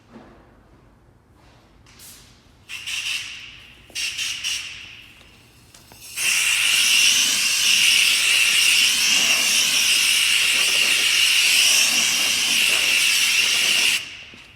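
Hissing jet of spray or air with a whistling edge: two short bursts, then one steady burst of about eight seconds that cuts off sharply.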